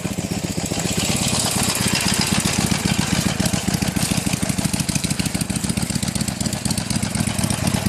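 Harley-Davidson Iron 883's air-cooled V-twin engine running at low revs with a steady, rapid pulse, as the motorcycle is ridden slowly through a river crossing.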